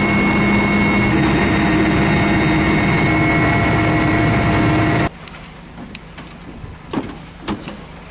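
A vehicle's engine running steadily, heard loud and close, with a constant hum for about five seconds. It then cuts off abruptly to a much quieter background with a few short knocks.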